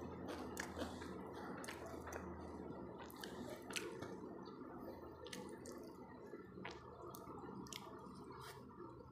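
Close-miked eating sounds: wet chewing and lip smacks with scattered sharp clicks as fingers work through rice on a plate, over a faint steady low hum.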